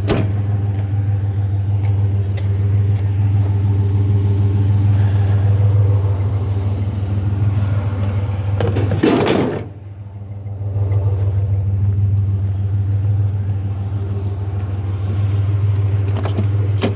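Vehicle engine running steadily, a constant low hum, with a brief noisy rustle or clatter about nine seconds in and a short drop in level before the hum returns.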